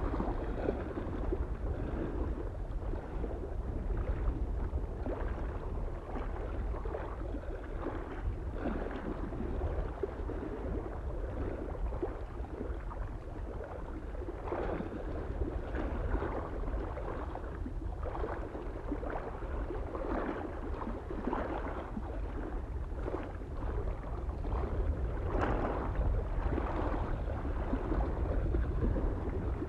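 Small waves lapping and splashing irregularly against a lake shore, over a steady low rumble of wind on the microphone.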